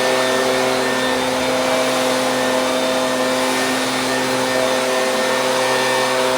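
Stihl BG 86 handheld leaf blower's two-stroke engine running steadily, with air rushing through the blower.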